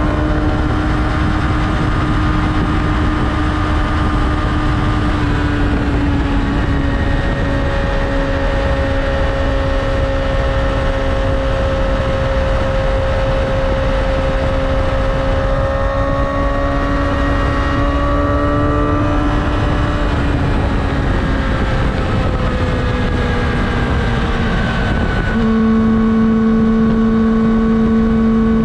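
Yamaha R6's inline-four engine running at cruising revs under the rider, over a steady rush of wind and road noise. Its pitch drifts gently, then about 25 seconds in it jumps suddenly to a new steady note and gets a little louder.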